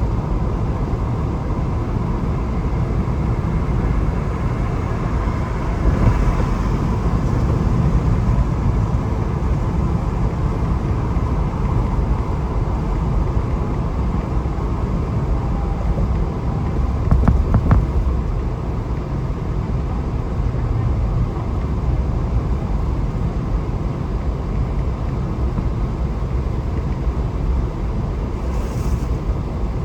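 Steady road and engine rumble heard from inside a moving vehicle, with a brief louder swell about halfway through.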